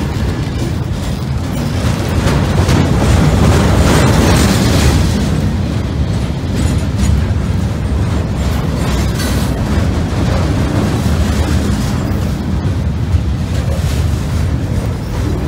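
Loaded gondola cars of a unit steel freight train rolling past close by: a loud, heavy low rumble of steel wheels on rail, with light clicks and clanks, swelling about two seconds in.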